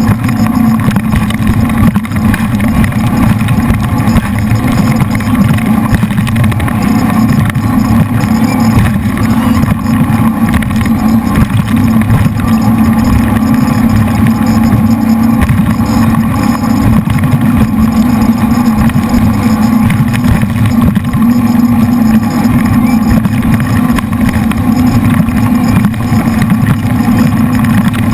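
Wild Thing jet boat's three V8 engines running loud and steady at speed.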